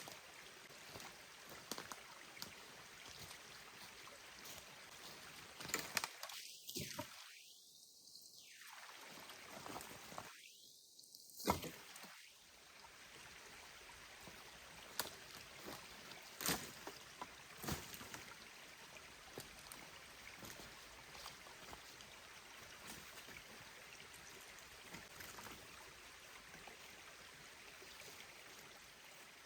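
Small mountain stream flowing steadily, with scattered sharp clicks and knocks, the loudest about eleven seconds in.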